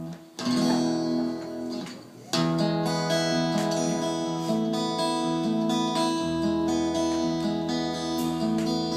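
Acoustic guitar strumming chords as a song's introduction: a chord struck about half a second in, another about two and a half seconds in, then chords ringing steadily.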